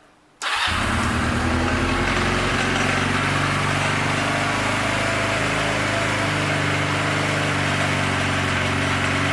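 Honda Rebel 250's air-cooled parallel-twin engine starting about half a second in and then idling steadily, with the motorcycle lift it stands on rattling from the vibration.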